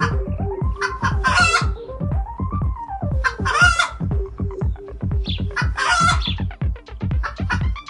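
Chicken calls: three short calls about two seconds apart, over background music with a steady thumping beat and a tone that slides up and down.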